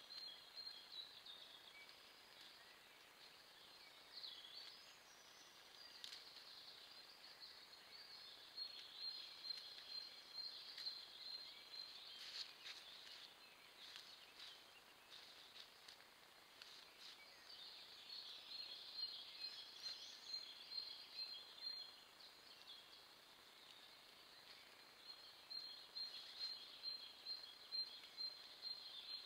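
Very faint woodland birdsong: high, rapid trills in bouts of a few seconds, with a few soft rustles over low hiss.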